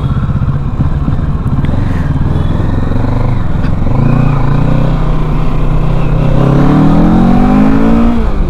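Kawasaki Ninja 650's parallel-twin engine running under way, its pitch steady at first, then climbing as it revs up over the last couple of seconds before dropping sharply near the end.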